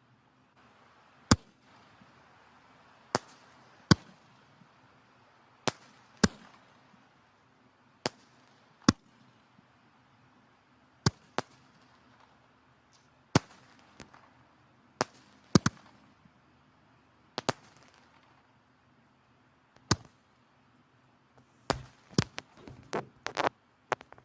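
Firewood burning in a fireplace, crackling: sharp, irregular pops about once a second over a faint hiss, with a quick run of pops near the end.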